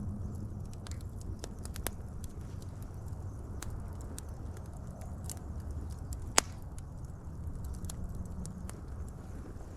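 Wood fire crackling: scattered sharp pops over a low steady rumble, with one loud pop about six seconds in.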